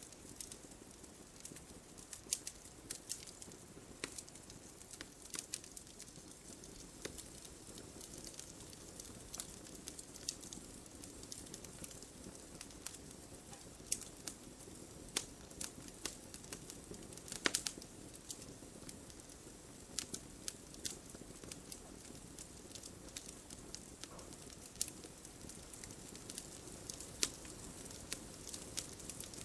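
Campfire burning, with a soft steady hiss of flames and frequent irregular crackles and pops of burning wood, a few of them sharper and louder.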